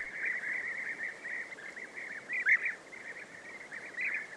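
European bee-eaters calling: a continuous stream of short chirps at a steady pitch from several birds, with a few louder calls about halfway through and near the end.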